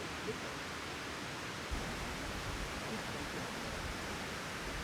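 Steady rushing of a mountain stream, with a few low bumps around two seconds in.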